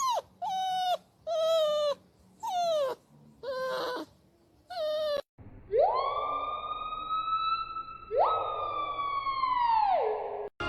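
Dog crying in a run of short whines that fall in pitch, then breaking into two long howls, the second sliding down at its end.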